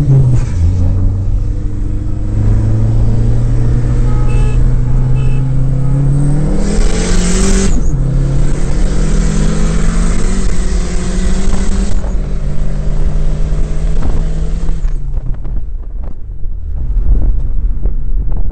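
Turbocharged four-cylinder car engine pulling hard at full throttle, heard from inside the cabin, its pitch climbing through the gears with two shifts about 8 and 12 seconds in. About 15 seconds in the throttle comes off and the engine drops to a quieter run.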